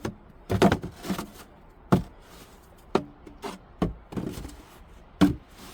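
A series of irregular sharp knocks and thumps, roughly one a second.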